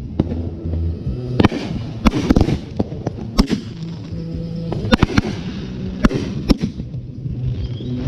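Fireworks going off in a string of sharp bangs, roughly one every second or so, some in quick pairs.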